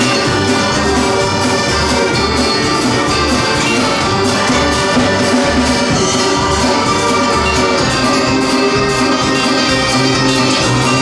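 Live band playing an instrumental break: sustained melody notes over a steady, regular bass beat, with no singing.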